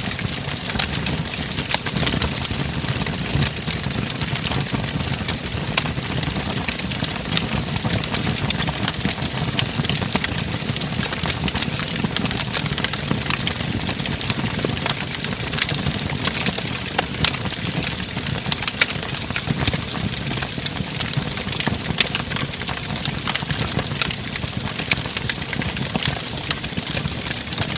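Wood fire burning in a fireplace: a steady low rumble of flames under frequent sharp crackles and pops.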